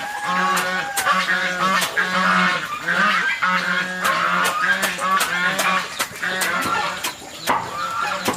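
Farm poultry, a flock of geese by the sound's kind, calling many times at once in overlapping calls, with sharp knocks at irregular intervals.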